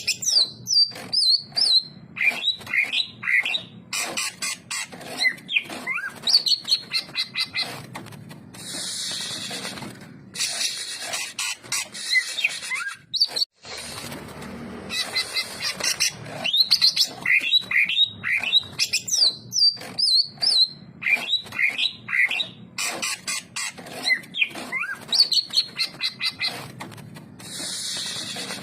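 Cucak ijo (green leafbird) singing persistently: fast runs of loud, sliding whistled notes, broken now and then by harsh rasping passages.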